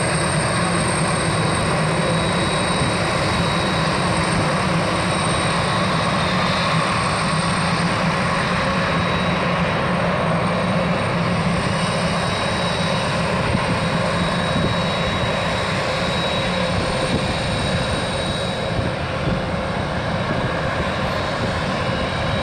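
Steady jet turbine noise from a Boeing 767 close by: a constant rush with a thin, high, unchanging whine on top.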